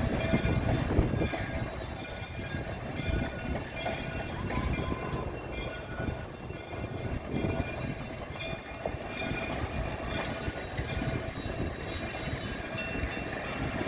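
A steam-hauled train rolling along the track, with rail and wheel clatter and a low rumble, and thin high steady tones that come and go.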